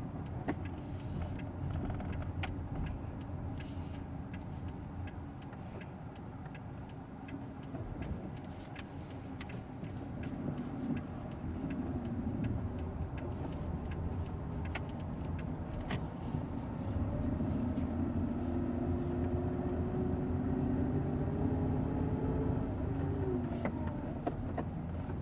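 Hyundai EON running at low rpm with a grinding noise. A faint tone rises and falls in pitch through the second half, and the sound gets louder about two-thirds of the way in.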